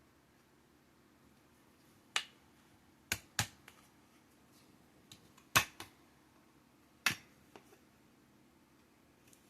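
Sharp, irregular clicks and knocks of mini greenhouse poles and shelf racks being handled and fitted together: about five louder clacks with a few lighter ticks in between.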